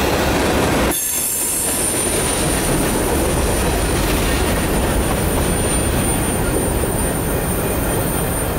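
Rear cars of a mixed freight train (tank cars and covered hoppers) rolling past on the rails: steel wheels rumbling and clattering over the track, with a thin, steady high-pitched wheel squeal from about a second in.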